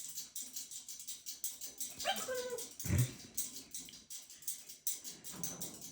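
A pet bird giving a whining call that slides down in pitch, about two seconds in, over rapid clicking, with a low thump about three seconds in.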